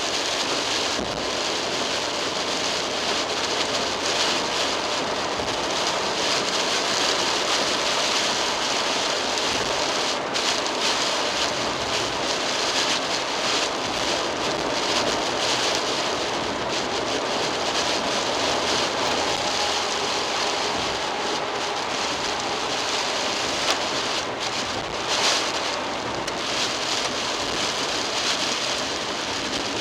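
Heavy rain beating on a moving car and tyres hissing on a flooded expressway, heard from inside the cabin through a dashcam microphone, with a low steady hum of the car underneath. Two short knocks stand out near the end.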